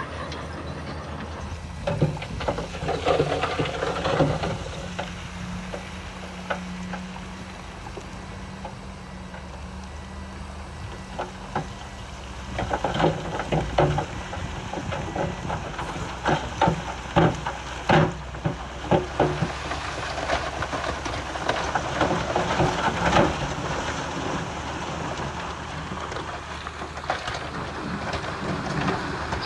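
Bulldozer's diesel engine running steadily, with repeated sharp clanks and knocks of metal and stone, thickest about two seconds in and again from about 13 to 19 seconds in.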